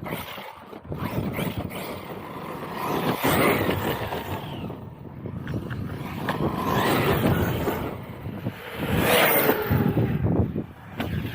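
Arrma Outcast 6S electric RC truck being driven hard: its brushless motor whines up and down in pitch as the throttle is worked, mixed with tyre and ground noise, with surges about 3, 7 and 9 seconds in.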